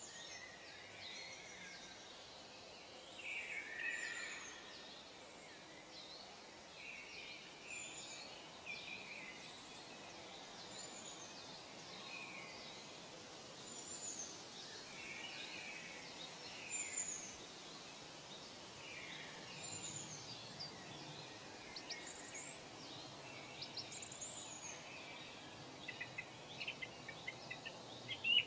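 Songbirds chirping over steady background noise: a high, falling whistle comes back about every three seconds, with lower chirps in between and louder, quicker chirps near the end.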